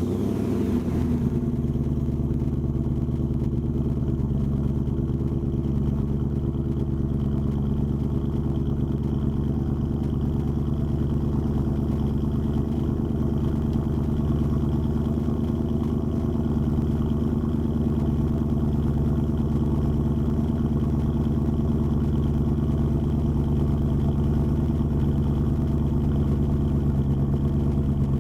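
BMW E39 M5's 4.9-litre S62 V8 idling after a cold start through a muffler-deleted exhaust. It settles within the first second after starting, then runs at a steady, even idle.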